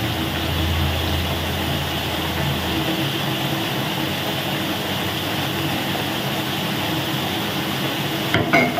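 Chicken and vegetables frying in a hot steel wok on an induction cooker, a steady sizzle as oyster sauce is shaken in. A low hum stops about three seconds in.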